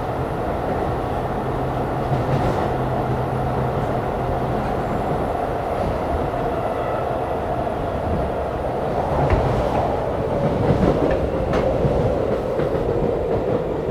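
Keisei 3500 series motor car running on the line, heard from inside the car: steady wheel and rail rumble with a few faint joint clicks. A tone from the running gear sinks a little in pitch over the second half as the train slows on the approach to the next station.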